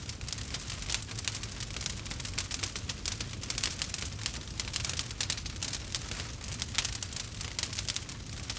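Campfire crackling: a dense, irregular run of sharp pops and snaps from burning wood over a low steady rumble.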